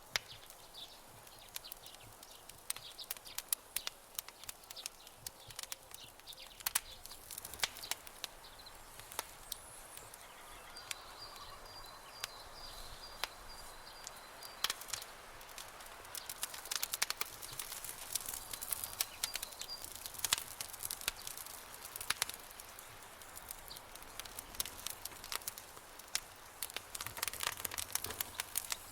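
Campfire crackling and popping, with sharp snaps scattered irregularly over a soft steady hiss. A faint, high, rapid chirping comes in about eleven seconds in for a few seconds, and again briefly later.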